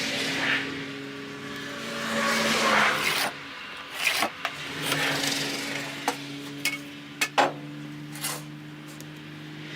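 An engine running steadily, its pitch shifting about midway, with repeated swells of hissing and several sharp clicks.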